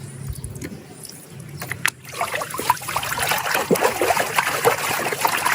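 Water splashing and trickling as a muddy plastic toy animal is washed by hand; quiet at first, then busy with quick irregular splashes from about two seconds in.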